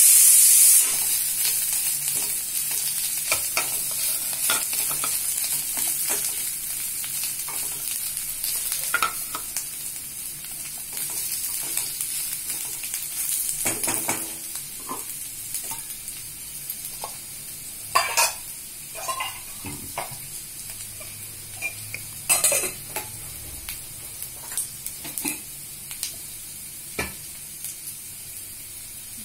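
Chopped onions, green chillies and whole spices sizzling in hot oil in a stainless steel kadai, the sizzle slowly dying down. A wooden spatula scrapes and knocks against the pan now and then, a few louder scrapes in the second half.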